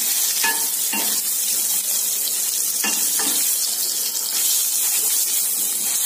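Small whole brinjals sizzling in hot oil in a kadhai, a steady hiss, with a few knocks and scrapes of a wooden spatula against the pan as they are turned.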